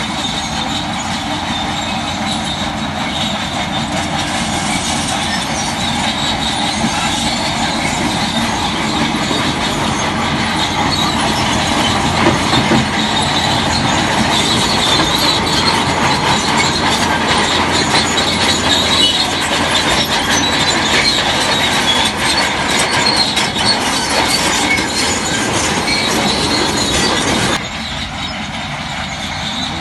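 Crawler bulldozer running with its steel tracks, a dense mechanical din full of rapid clanking. It grows louder over the first dozen seconds and drops abruptly near the end.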